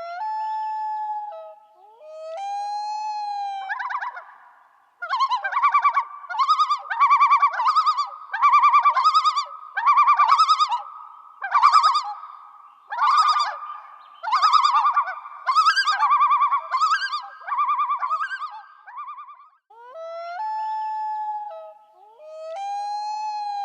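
A series of loud, rapid chattering animal calls repeating about once a second, with a short held tone that steps in pitch before them and again near the end.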